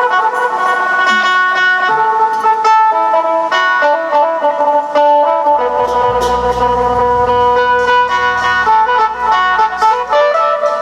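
Amplified phin, the Isan lute, playing a quick plucked melody over a steady drone string. A low bass tone comes in about halfway and stops near the end.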